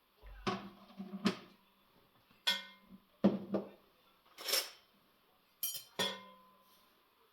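Metal cookware and utensils knocking together: about eight sharp clanks at irregular intervals, several leaving a short metallic ring.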